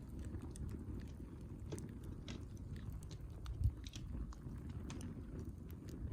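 Wood campfire crackling, with irregular sharp pops and snaps over a steady low rumble, and one low thump about three and a half seconds in.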